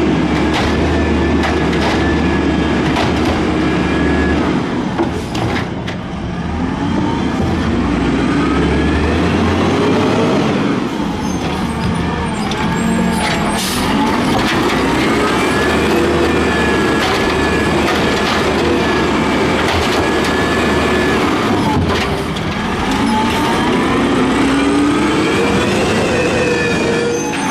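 Peterbilt 320 garbage truck's diesel engine revving hard, its pitch climbing and falling again several times, with two short drops in loudness where the revs fall away.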